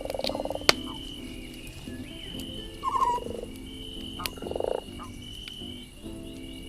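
Frogs croaking in a chorus, with three louder rattling croaks standing out, over a campfire crackling with sharp pops, one loud pop under a second in.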